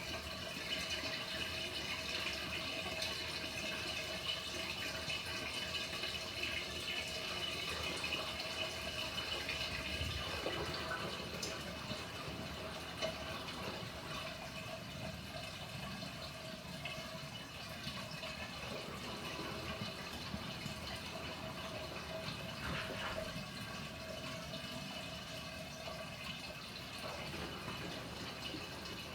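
Water pouring steadily into the tub of a Panasonic NA-FA100H9 top-loading washing machine as it fills, with a faint steady hum underneath.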